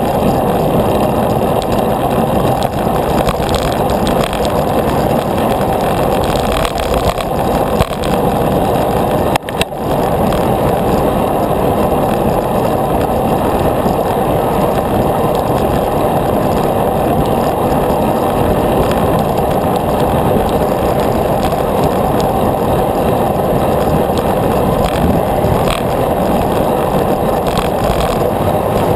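Steady rush of wind and road noise picked up by a camera on a moving bicycle, with a brief dip about nine and a half seconds in.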